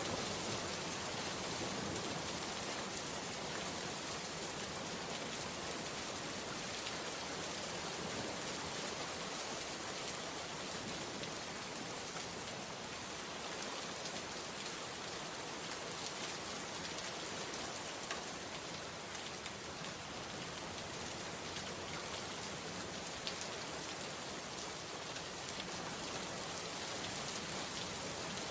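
Steady rainfall, an even hiss with scattered small drop ticks on a hard surface.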